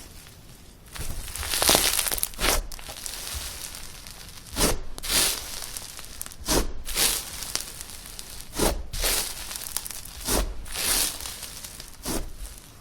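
Hands pressing and stretching slime, a series of short noisy squishes, often in pairs, about every two seconds.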